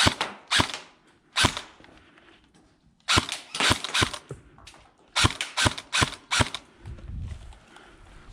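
Airsoft guns firing: three single shots in the first second and a half, then two quick strings of several shots about three and five seconds in.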